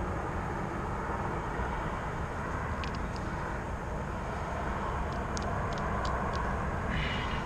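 Steady low rumbling outdoor background noise, with a few small light clicks of hand tools working on a wire end, about three seconds in and again a couple of seconds later.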